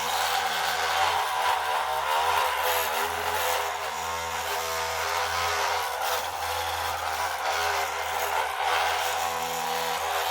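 Radio-controlled model construction machine running, a steady mechanical whirr with a wavering pitch.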